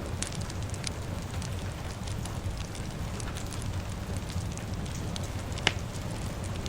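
A crackling fire over steady rain: a constant low rumble and hiss, with scattered sharp pops and crackles. The loudest pop comes near the end.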